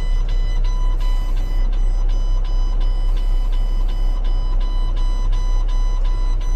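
A truck's backup alarm beeping about three times a second over the low, steady running of a heavy truck engine, with two short bursts of hiss about a second and three seconds in.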